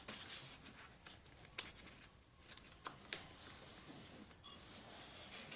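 Sheet of paper being folded and creased by hand: soft rustling with a few sharp crackles, the loudest about a second and a half in.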